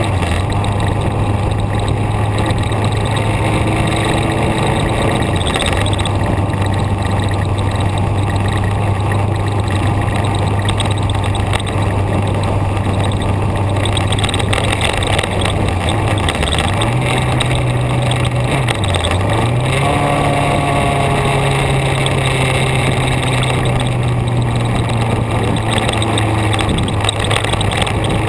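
Vehicle engine running under way with steady road and wind noise; its pitch rises about two-thirds of the way through, drops briefly as if for a gear change, then holds at a slightly higher pitch.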